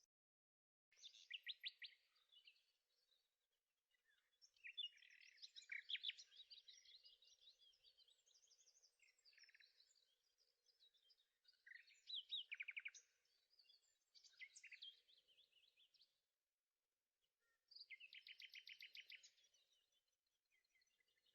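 Faint birdsong: a songbird singing short phrases of rapid trilled notes, about six of them, with brief pauses between.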